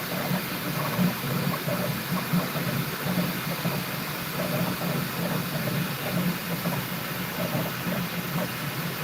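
Bambu Lab P1S 3D printer running mid-print: a steady fan hiss with a low motor hum that wavers as the print head moves.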